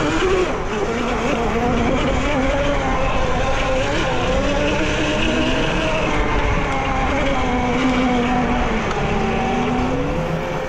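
Dirt bikes riding a motocross track: motors rising and falling in pitch as they speed up and slow down, over a steady rushing noise.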